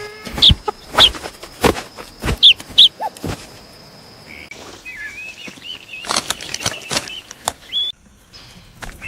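Cartoon animal sound effects: sharp flaps and thumps mixed with short high bird-like chirps, then a wavering high squeaky call in the middle.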